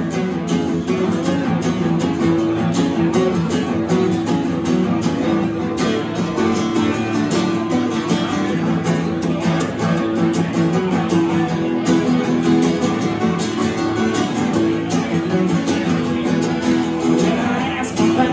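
Guitar playing an instrumental break of a country song, strummed to a steady beat.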